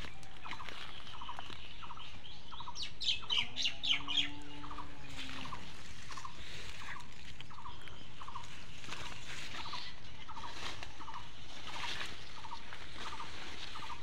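Birds calling among bushes: a soft short call repeated about three times a second throughout, with a quick run of sharp squawks or chirps about three to four seconds in.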